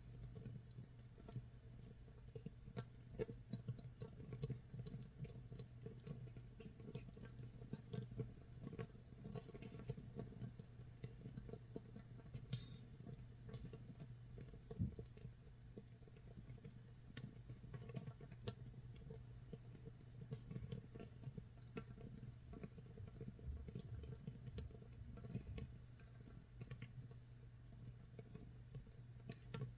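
Makgeolli base brew (mitsul) actively fermenting in a jar, 24 hours in: a faint, irregular crackle of tiny carbon-dioxide bubbles popping, like light rain or rice crust toasting in a pan.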